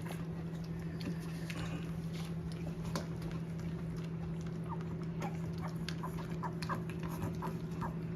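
Puppies lapping and slurping milk from a bowl: quick, irregular wet clicks, busiest in the second half, over a steady low hum.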